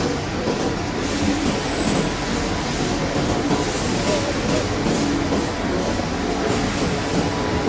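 Steady rumble and clatter of industrial scrap-processing machinery running, with some squealing tones wavering through it.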